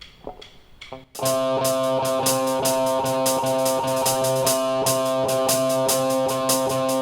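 Instrumental intro of a worship song, starting abruptly about a second in: guitar and a drum kit playing a steady beat with sustained chords, no singing yet.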